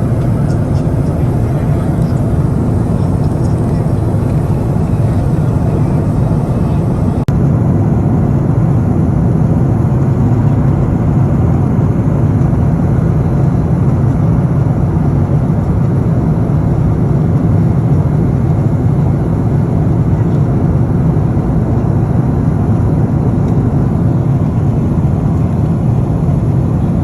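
Steady, loud rumble of a jet airliner heard from inside the passenger cabin.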